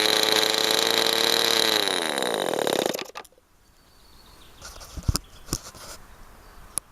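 Early-1960s O.S. Max 19 marine two-stroke model engine running steadily at high revs, then slowing with a falling pitch and stopping about three seconds in. A few faint clicks or knocks follow.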